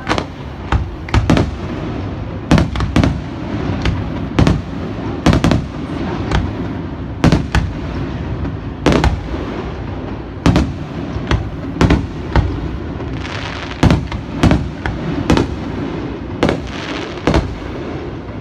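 Aerial fireworks show: a steady run of loud bangs from shells bursting, one or two a second, over a continuous rumble and echo, with bursts of crackle now and then.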